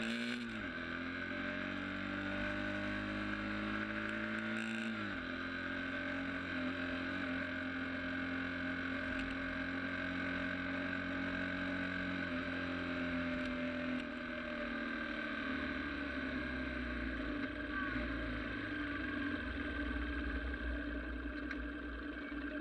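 Sport motorcycle engine under way: the pitch climbs, drops about half a second in, climbs again and drops about five seconds in as it shifts up, then holds steady and falls lower about fourteen seconds in.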